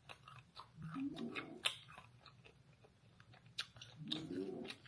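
Close-up mouth sounds of chewing fried chicken: irregular wet, crisp clicks and smacks, with two short closed-mouth hums, about a second in and near the end.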